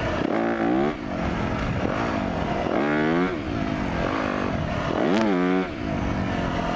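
2015 Yamaha YZ250F's single-cylinder four-stroke engine revving up and dropping back three times, about half a second in, about three seconds in and about five seconds in.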